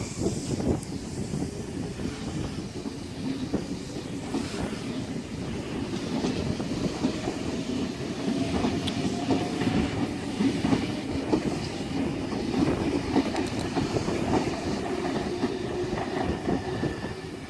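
Sydney Trains S-set double-deck electric train pulling out of the station, its wheels clicking over the rail joints with a steady rumble and a faint tone that rises slowly through the middle.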